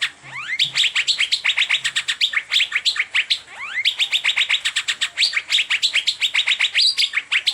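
Asian fairy-bluebird (cucak biru) singing a fast, unbroken string of sharp chirps, several a second, many of them quick rising whistles, with a short break about halfway through.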